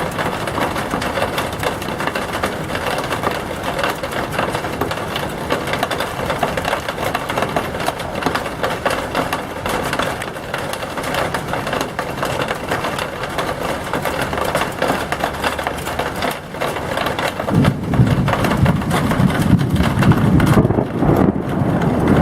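Heavy thunderstorm rain pouring, a dense, steady crackle of drops. About eighteen seconds in, a louder low rumble joins it.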